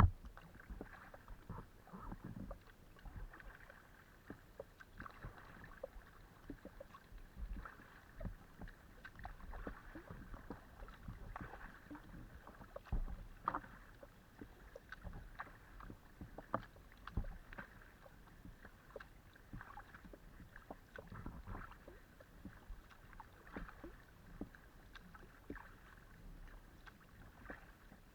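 Kayak paddling heard from a camera mounted on a Decathlon Itiwit X500 kayak: irregular paddle dips and splashes, water lapping along the hull, and small knocks. One louder knock comes about halfway through.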